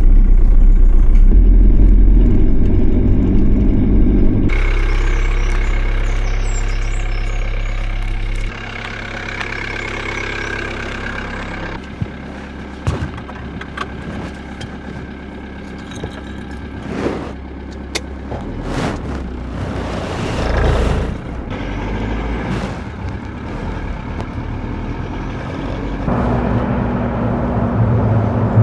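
Campervan engine and road noise while driving, heard as several short clips that change abruptly: a loud low rumble for the first few seconds, then quieter running with a few knocks.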